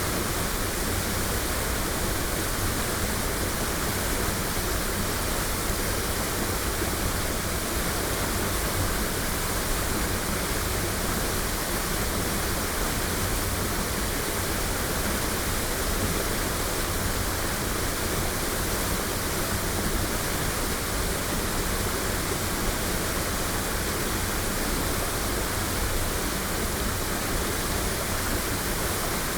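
Waterfall rushing: a steady, unbroken roar of falling water, recorded binaurally.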